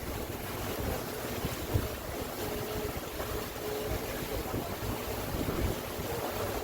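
Ferry boat under way across open water: a steady rush of water and motor noise, with wind buffeting the microphone in irregular low thumps.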